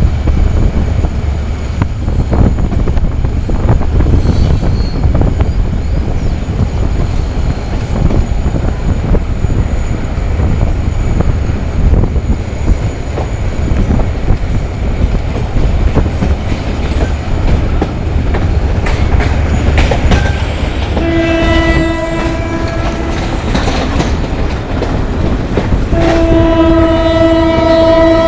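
GT22CW diesel-electric locomotive and its train running, a heavy low rumble with wheels clicking over rail joints. In the last third the locomotive's horn sounds twice: one blast of about two seconds, then a longer one that is still going at the end.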